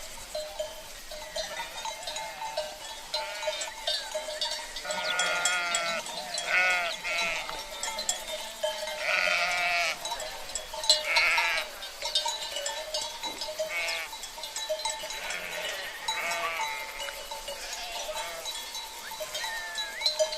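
A flock of sheep bleating again and again, several calls overlapping, over a steady clanking of cowbells worn by the animals.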